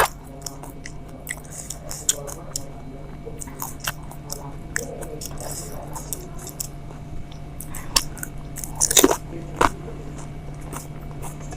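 A person eating golgappa (pani puri) close to the microphone: crisp puri shells crunching between the teeth and wet chewing, in many short crackles. A louder burst of crunching comes about nine seconds in. A steady low hum runs underneath.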